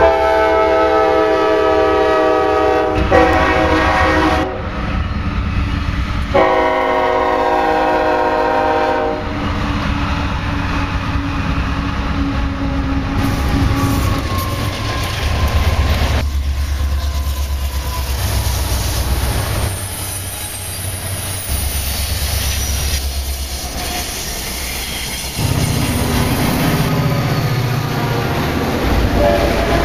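Diesel locomotive air horn sounding two long chord blasts, one at the start and another about six seconds in, followed by passing diesel locomotives with a steady low engine rumble and wheels clattering over the rail joints.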